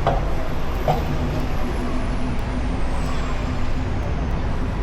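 Steady rumble of a Onewheel rolling on city streets, with wind and nearby road traffic. A thin high whine slowly falls in pitch from about a second in.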